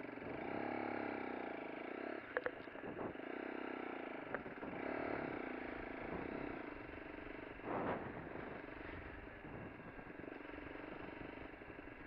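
Lexmoto LXR motorcycle engine running under way, its pitch rising and falling several times as it accelerates and changes gear, with a few sharp clicks.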